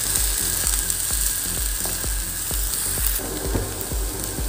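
Chopped onions and green chillies sizzling in hot oil in a frying pan while being stirred, with a steady hiss and scattered clicks and scrapes of the utensil against the pan.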